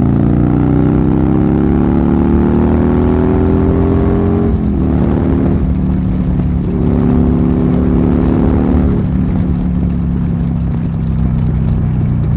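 Buell Lightning XB12S's 1203cc air-cooled V-twin, on an aftermarket D&D exhaust, accelerating hard, its revs climbing steadily for about four and a half seconds. The revs then drop sharply and the engine runs on at lower, steadier speeds, easing off again about nine seconds in.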